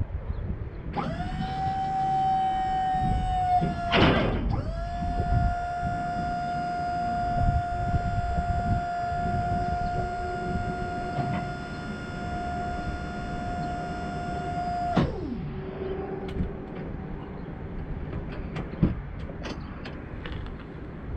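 A small electric motor whines at one steady pitch for about fourteen seconds. It breaks off and restarts about four seconds in, then winds down in pitch and stops, over a steady low rumble.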